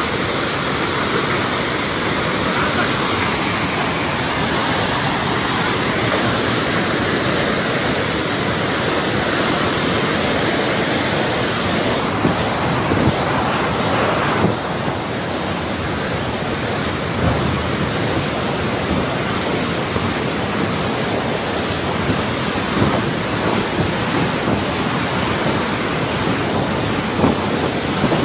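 Flash-flood torrent rushing: a loud, steady roar of fast-moving water.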